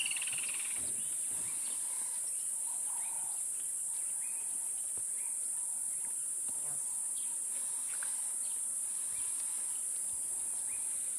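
Steady high-pitched drone of an insect chorus. A few faint bird chirps sound over it, the clearest a quick falling call right at the start.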